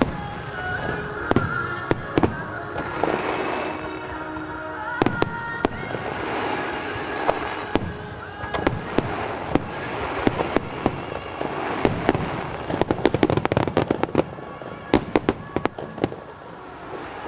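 Fireworks display: shells bursting in sharp bangs throughout, with dense rapid crackling volleys about twelve seconds in and again near the end.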